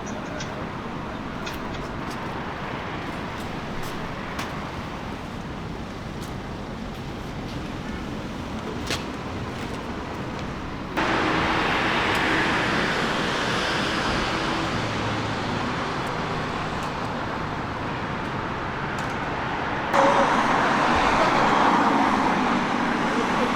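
Steady vehicle and road noise as heard from inside a moving vehicle. It jumps suddenly louder about halfway through and again near the end.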